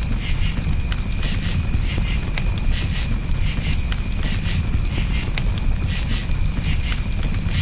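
Campfire burning with a steady low rumble and scattered sharp crackles and pops, while crickets chirp in short, rapidly repeated pulses over it.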